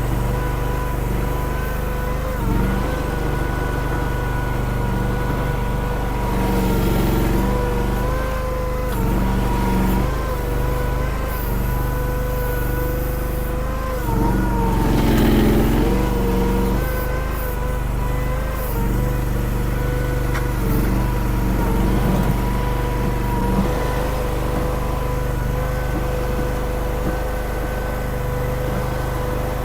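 Small gas-engined mini skid steer running under load while scooping and moving gravel: a steady engine drone with a steady whine above it that sags and recovers as the hydraulics take load, and a louder, rougher patch about halfway through.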